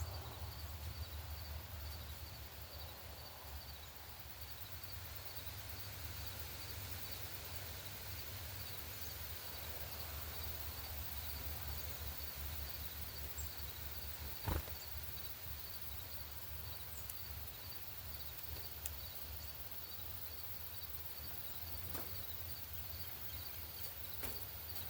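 Quiet outdoor ambience with a steady low rumble and a high chirp repeated evenly, under two times a second. A single sharp tap or knock about midway.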